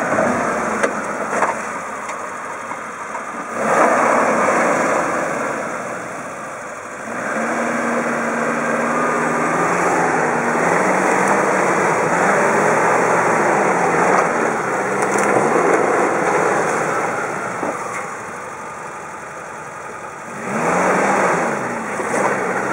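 1988 Suzuki Samurai's four-cylinder engine working under load as the 4x4 crawls over a rock ledge, revving up and easing off in repeated throttle surges. The engine pitch rises and falls through the middle, with a loud surge near the end.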